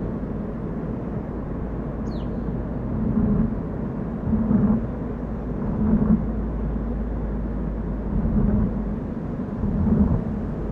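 Car driving on a mountain road: a steady low rumble of engine and tyres, swelling every second or two. A short high falling chirp about two seconds in.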